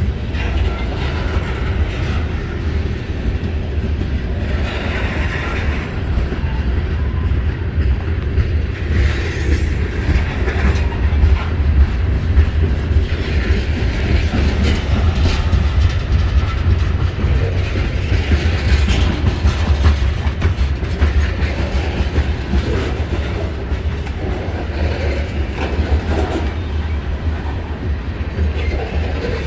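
Long CSX mixed freight train rolling past at trackside: a steady low rumble of wheels on rail with scattered clatter and clicks from the passing cars.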